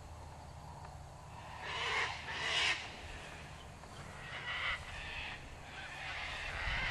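Birds calling in the background: two harsh calls about two seconds in, then a few shorter ones later, over a low steady hum.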